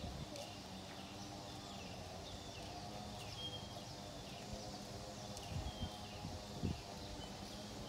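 Birds chirping outdoors, short whistled notes that come again every second or two, over a steady low hum. A few soft thumps come near the end.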